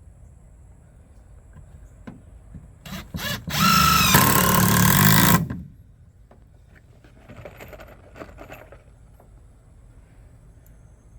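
Cordless power drill: two quick blips of the trigger, then a run of about two seconds whose motor pitch drops partway through as the bit loads up in the wood.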